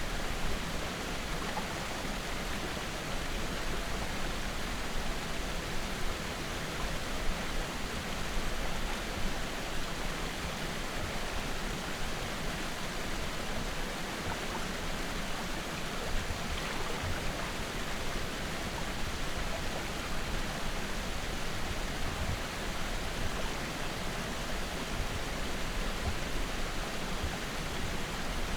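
Steady rushing noise of wind and water on open lake water around a kayak, with no clear separate strokes or splashes.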